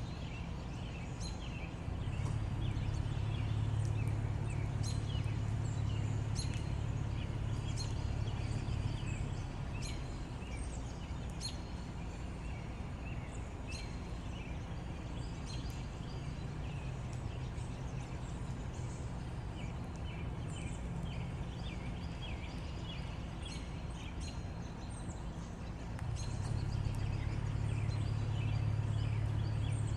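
Birds chirping and calling in many short, high notes over a steady low rumble. The rumble swells a couple of seconds in, eases off after about ten seconds and swells again near the end.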